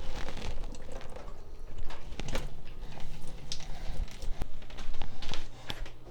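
Scattered clicks and knocks of hose fittings and valve handles being handled and connected on a water heater's service valves.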